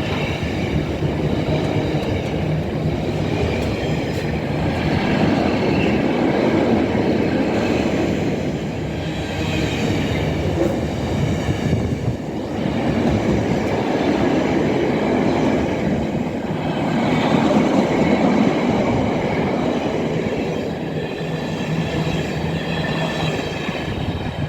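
Intermodal freight train hauled by a Class 66 diesel rolling through the station: a long, steady rumble of wagons passing, with high wavering squeals from the wheels on the rails.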